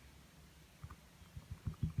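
A few soft, dull taps of a paintbrush dabbing on a small canvas, starting almost a second in and coming faster near the end.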